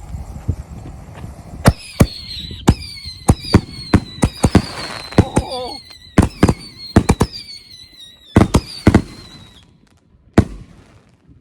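A chain-fused rack of 6-inch canister shells firing: a rapid, irregular series of sharp, loud bangs from about two seconds in to around nine seconds, with a high whistle gliding slowly down beneath them. One last single bang comes near the end.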